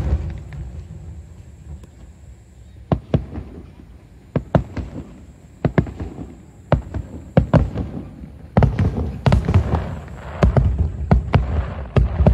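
Aerial fireworks shells bursting: single sharp bangs a second or so apart at first, then a dense barrage of rapid bangs from about two-thirds of the way in.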